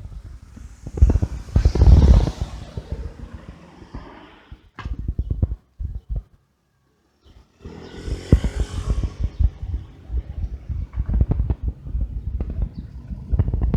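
Wind buffeting and rattling rumble on the microphone of a camera carried on a moving bicycle, with many small knocks. The sound cuts out almost completely for about a second just past the middle.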